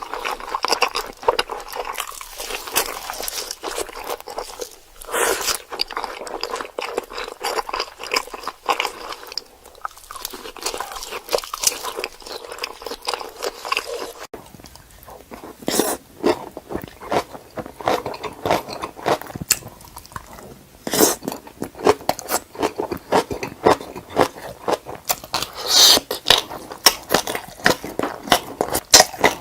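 Close-miked eating: a person biting and chewing food with many quick crunches, packed densely. About halfway through, the crunching changes abruptly to sharper, more separated crunches.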